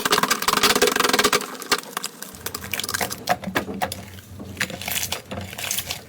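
Slime being worked, giving dense crackling and popping clicks that thin out into scattered pops over the last couple of seconds.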